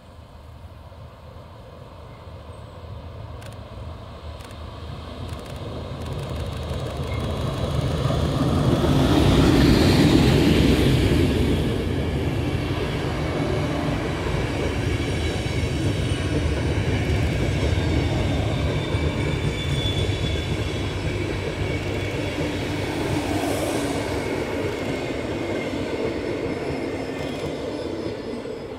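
An ÖBB class 1142 electric locomotive and its passenger coaches passing close by. The sound builds steadily as the train approaches and is loudest as the locomotive goes by about ten seconds in. The coaches then keep up a steady rolling rumble that fades a little near the end.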